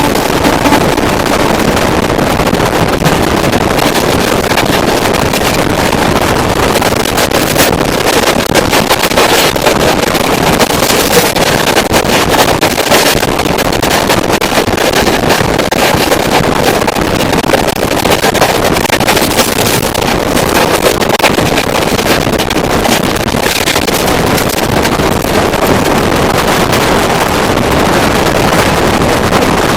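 Kamakhya–Puri Express passenger train running, a loud, steady rush of train noise with irregular crackles and wind on the microphone.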